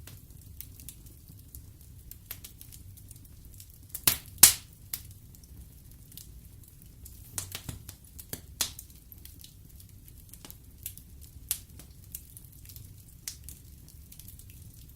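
Wood fire burning in a fireplace: a low steady rumble of the flames with scattered sharp crackles and pops. The loudest pair of pops comes about four seconds in, and another cluster comes a few seconds later.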